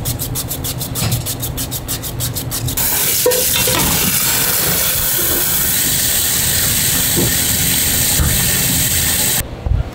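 Rapid, rhythmic scraping strokes for about the first three seconds, then food frying in a hot pan with a loud, steady sizzle that cuts off abruptly near the end.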